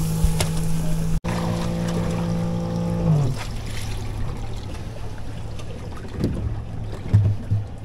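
Boat's outboard motor running at a steady speed, then throttled back about three seconds in, its pitch falling as it settles to a lower, steady idle, with water and wind noise.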